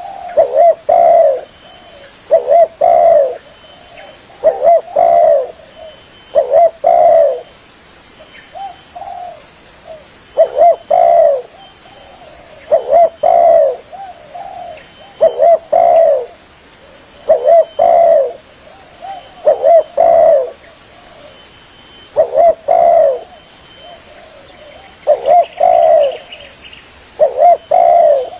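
Spotted dove (tekukur) cooing: short phrases of low coos repeated about every two seconds, a bird lure call.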